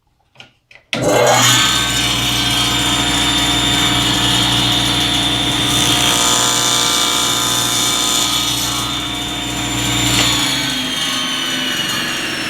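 Table saw with a thin-kerf blade switched on about a second in and running at speed through a short rip cut, a steady loud motor hum and blade whine. Near the end the motor is switched off and the blade's whine falls in pitch as it winds down.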